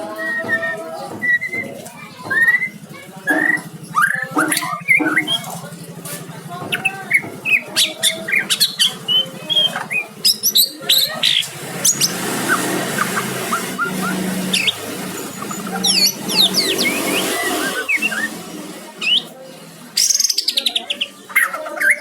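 White-rumped shama (murai batu) singing a long, varied run of short whistles, chirps and sweeping notes. Partway through, a steady rushing noise with a low hum rises under the song for several seconds, then fades.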